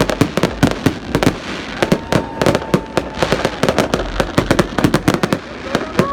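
New Year fireworks display: a dense, rapid run of bangs and crackles from shells bursting, many a second.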